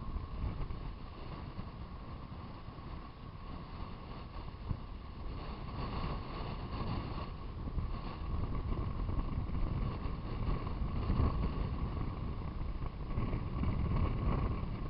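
Funtana RC model airplane's motor and propeller droning with a steady high note that swells and fades as the plane passes, louder around the middle and near the end. Heavy wind buffeting on the microphone rumbles underneath.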